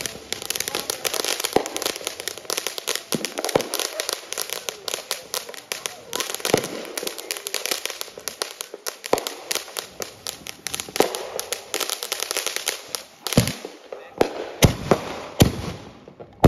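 Fireworks set off on the ground, going off as a rapid, dense stream of crackling pops. Near the end the pops thin out into several louder, separate bangs.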